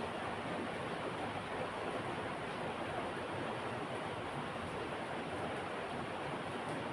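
Steady, even hiss with no distinct strokes or other events.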